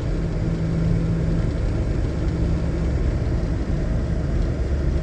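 Car cabin noise while driving slowly: a steady low rumble of engine and tyres, with a steady hum that stops about a second and a half in.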